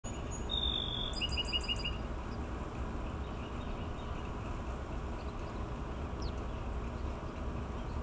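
A songbird calls about half a second in: one held whistled note, then a quick run of about eight short notes. After that only a steady outdoor background remains, a low rumble with a faint constant high-pitched drone.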